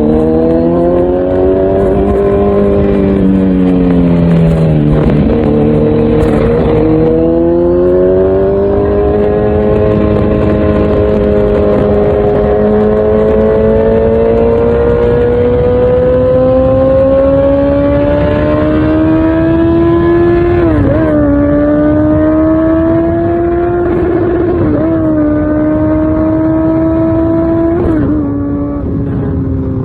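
Kawasaki Z900's inline-four engine through an Akrapovic full exhaust system, ridden on the road. The engine note falls as the bike slows for the first few seconds, then climbs steadily under a long pull. After that come three quick upshifts, each a sudden dip in pitch followed by a climb again.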